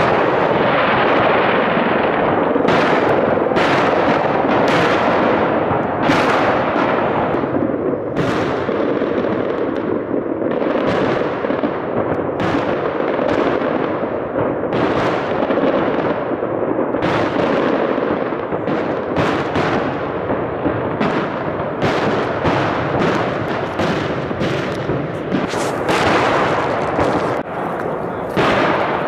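Aerial fireworks display, shells bursting in a rapid run of sharp bangs, sometimes several a second, over a steady dense rumble of noise.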